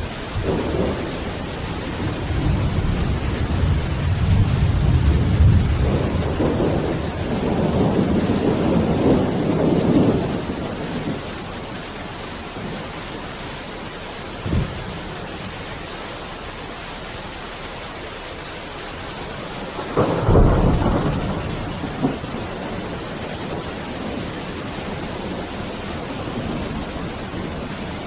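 Steady rain hissing throughout, with thunder: a long rolling rumble over the first ten seconds or so, a short crack near the middle, and a sharper clap about twenty seconds in that rumbles away over a couple of seconds.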